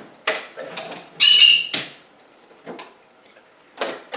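A pet bird squawking once, about a second in, among a few short knocks and clicks of things being handled.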